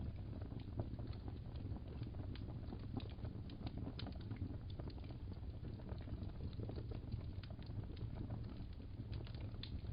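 Wood fire crackling in a fireplace: a steady low rumble with irregular small pops and crackles.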